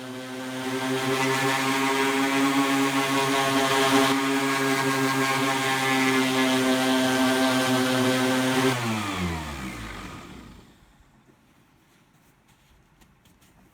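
Electric random orbital sander fitted with a carbide sanding disc, running at a steady pitch, then switched off about nine seconds in, its pitch falling as the motor spins down.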